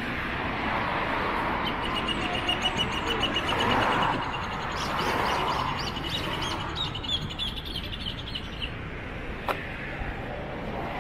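A bird calling in a long, rapid run of high, evenly repeated chirps, starting about two seconds in and stopping about two seconds before the end, over steady outdoor background noise. A single sharp click comes near the end.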